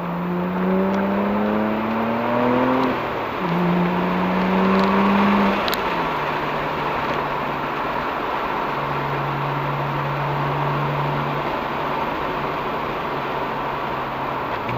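BMW 335i's N54 twin-turbo straight-six, with a Remus exhaust, pulling hard as heard from inside the cabin. The engine note rises, drops about three seconds in as it shifts up, rises again, and drops near six seconds. It then holds a lower, steadier note over tyre and road noise.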